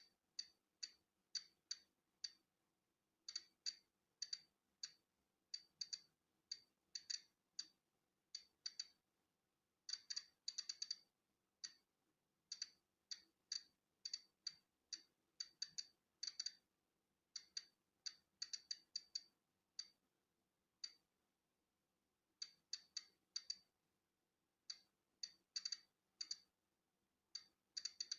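Polon EKO-C digital Geiger counter clicking as it registers natural background radiation. The sharp, high-pitched clicks come at random, bunched in quick clusters with pauses of a second or two between them.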